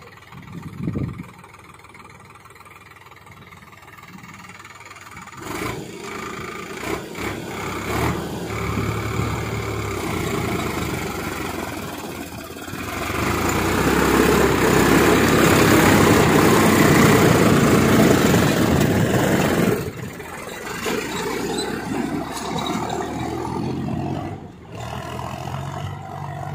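Solis 4515E 50 HP diesel tractor engine running while pulling a cultivator. It grows louder about five seconds in, is loudest for several seconds in the middle, then drops off suddenly and runs on more quietly.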